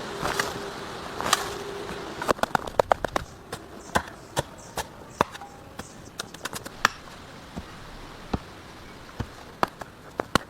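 Irregular sharp knocks and cracks, several a second at their busiest, after a short noisy stretch at the start.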